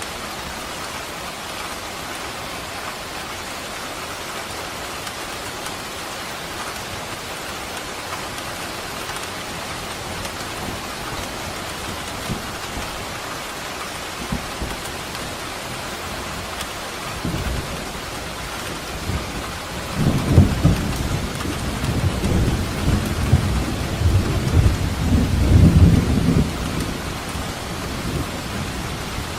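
Steady rain falling, with a long roll of thunder that starts low past the middle and rumbles loudest for several seconds before fading near the end.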